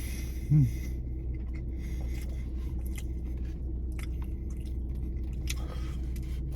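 A person chewing fast food close to the microphone, with small wet mouth clicks, over a steady low hum. A brief falling vocal sound comes about half a second in.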